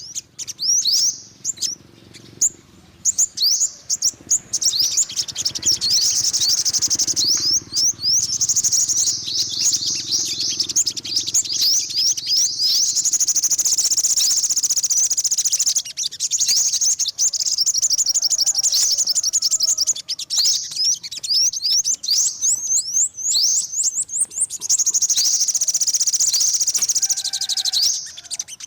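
Olive-backed (yellow-bellied) sunbird singing: long runs of quick, thin, high chirps and trills, each note sliding upward, broken by a few short pauses.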